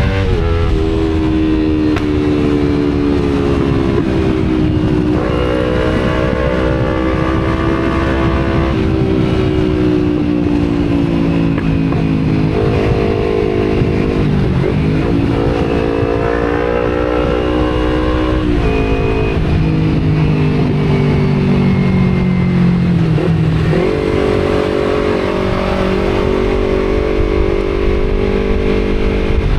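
Kawasaki Z250's parallel-twin engine through an Akrapovic exhaust, running under way with its pitch repeatedly rising and dropping as the throttle is opened and closed, over steady wind rumble on the microphone.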